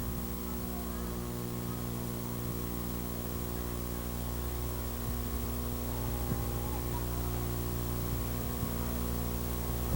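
Steady electrical mains hum: a stack of low, unchanging tones.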